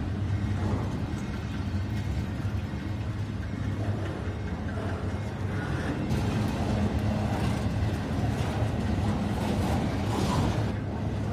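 Double-stack intermodal freight train's well cars rolling past at street level: a steady low rumble of steel wheels on rail that grows a little louder and harsher in the second half.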